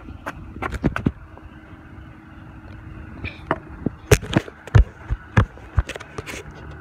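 A mini bike's small engine running as a steady hum, overlaid by a series of sharp knocks and thumps. The knocks come in a cluster about a second in and again through the second half, and they are the loudest sounds.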